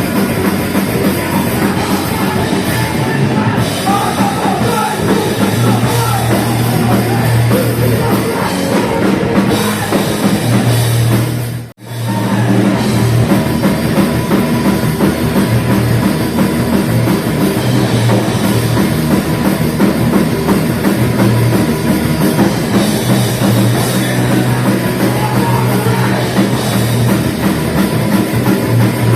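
Live heavy metal band playing loud, dense distorted music with a driving drum kit. The sound cuts out briefly about twelve seconds in, then comes straight back.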